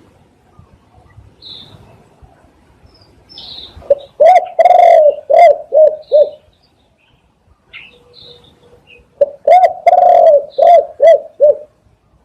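Spotted dove cooing loudly: two phrases about five seconds apart, each a run of about six low, rounded coo notes with one longer drawn-out note near the start. Faint high chirps of small birds are heard between the phrases.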